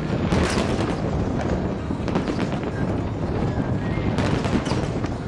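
Fireworks display: a continuous barrage of bangs and crackling from bursting shells, with louder crackling bursts about half a second in and again near the end.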